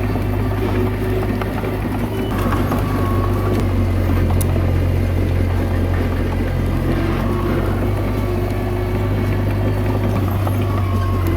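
Komatsu D21A mini bulldozer's diesel engine running steadily, a deep even drone, with a brief click about four seconds in.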